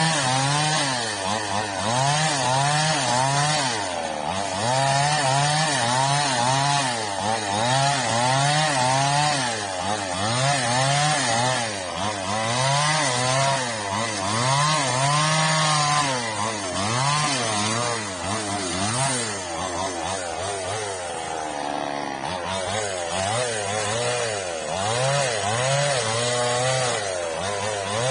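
Chainsaw engine revving up and down again and again, roughly every two seconds, as it cuts the old frond stubs off an oil palm trunk.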